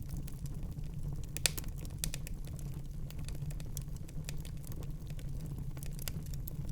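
Wood fire burning in a fireplace: a steady low rumble of flame with irregular sharp crackles and pops, the loudest pop about a second and a half in.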